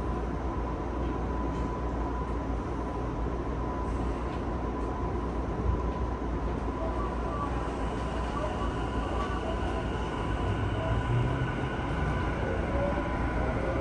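Running noise heard inside a Tokyu 5050 series 4000-subseries car with Hitachi IGBT-VVVF traction control: a steady low rumble of wheels on rail with a thin steady whine over it. Near the end faint rising whines come in.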